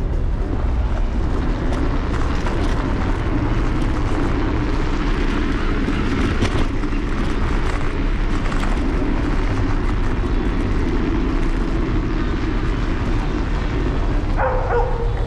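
Steady city street noise heard from a moving electric scooter: traffic and road rumble with wind on the handlebar-mounted microphone. Near the end there is a short higher-pitched sound that drops to a brief held tone.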